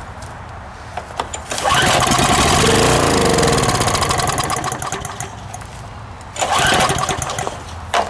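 Small single-cylinder Briggs & Stratton 6.5 hp Intek engine on a pressure washer catching on a shot of starting fluid. It runs loudly for a few seconds, then slows and dies with its pitch falling, and fires again briefly near the end. It won't keep running because fuel isn't getting through after years of sitting.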